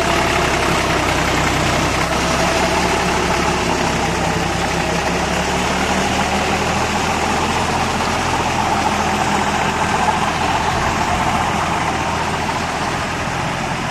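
Deutz-Fahr Agrolux 50 4WD tractor's diesel engine running steadily at an even pace.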